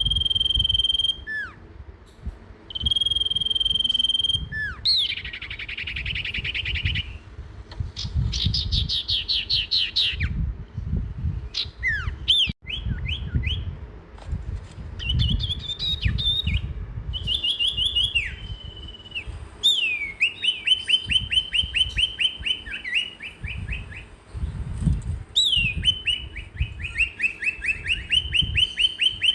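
Songbirds singing in a run of separate phrases: clear whistles held for about a second each, twice at the start, then fast trills of rapidly repeated notes and short downslurred calls, over a low rumble.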